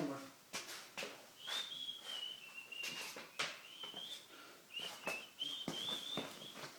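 A person whistling a wavering tune, starting about a second and a half in and breaking off a few times. Scattered clicks and knocks of tools being shifted around run beneath it.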